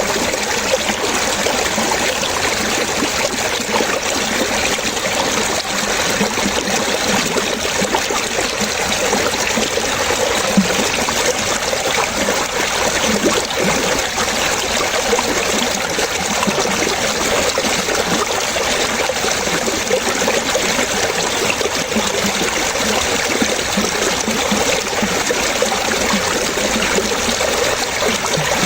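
Water trickling and splashing in a steady, unbroken flow, like a small stream or fountain.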